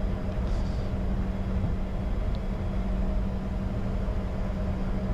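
Steady cockpit drone of a Bombardier Challenger 605 taxiing with its jet engines at idle, a constant low hum running under it.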